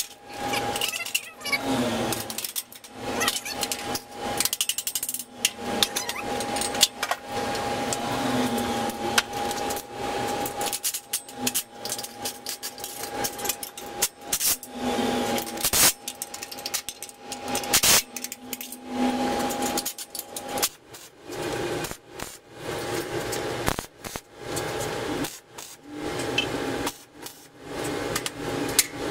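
Steel parts of a welding table being fitted and bolted together: many irregular knocks and clanks of steel on steel, over a steady tone.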